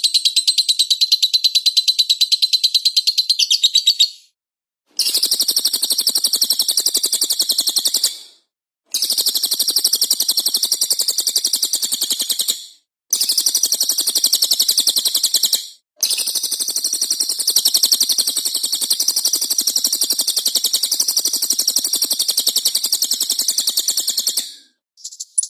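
Songbird song from a masteran training recording: fast, dense chattering trills, high-pitched, in several stretches of a few seconds each, broken by brief silent gaps about 4, 8, 13, 16 and 25 seconds in.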